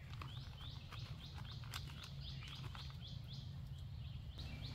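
A small bird chirping over and over, short high notes about three a second, over a low steady background rumble.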